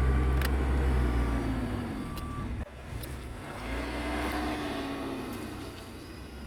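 Fiat Grande Punto's 1.4-litre four-cylinder petrol engine (code 350A1000) running on test. It is loudest at first, drops sharply for a moment about two and a half seconds in, then goes on with its pitch slowly rising and falling as the revs change.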